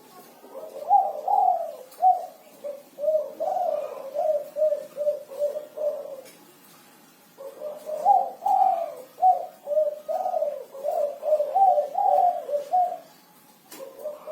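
Spotted dove (tekukur) cooing in two long bouts of repeated low notes, with a pause of about a second and a half between them and another bout starting near the end. It is the rhythmic 'kuku 6' song type that keepers prize.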